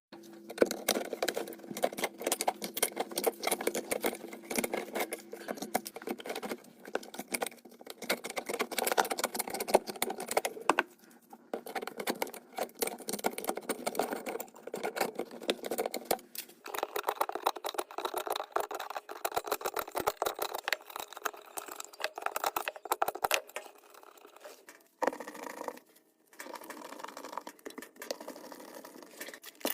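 Dense, rapid crinkling, clicking and rustling from hands working on dryer vent ducting, with short pauses about a third of the way through and again near the end.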